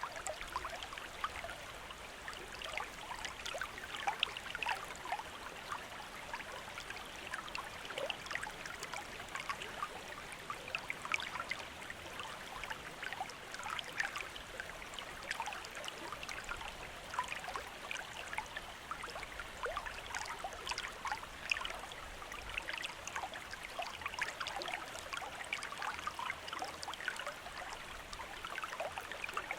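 Running water of a small stream burbling and trickling steadily, with many small splashes and gurgles.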